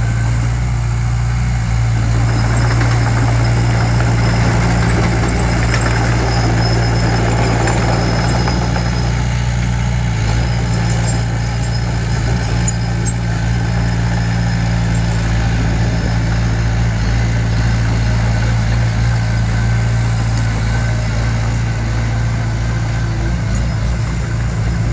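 Heavy construction machine's diesel engine running steadily at an even speed, with a deep constant hum that neither rises nor falls.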